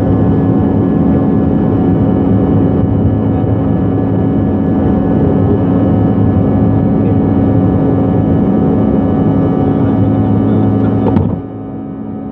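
Airliner engines heard from inside the passenger cabin, a loud steady drone with several fixed humming tones. About eleven seconds in there is a click, and the sound drops suddenly to a lower level.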